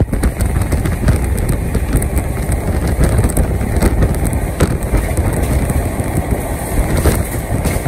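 Passenger train running at speed, heard from an open window of the moving coach: a loud, steady rumble and clatter of wheels on the track, with irregular sharp clicks.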